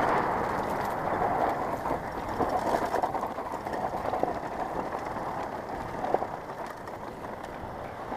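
Motocross bikes running at a distance, heard as a steady, noisy drone that eases slightly toward the end.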